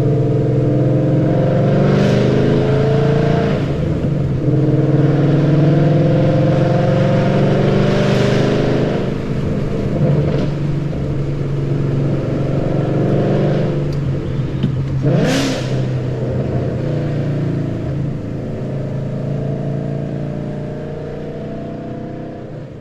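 2013 Ford Mustang GT's 5.0 V8 with BBK long-tube headers, a high-flow X-pipe and Roush axle-back mufflers, running under way: a deep, steady exhaust drone whose pitch drifts up and down. Three short whooshes break in at about two, eight and fifteen seconds, and the sound slowly grows quieter toward the end.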